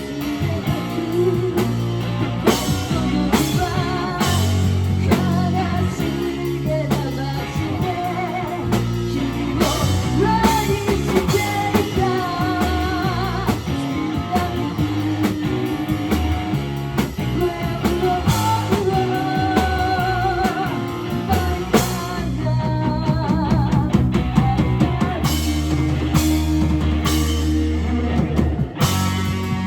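Rock band playing live: electric guitar, bass and drum kit with a singer's vocal over them.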